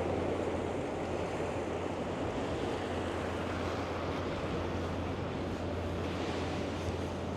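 Steady wash of wind and river water, with a low steady hum underneath.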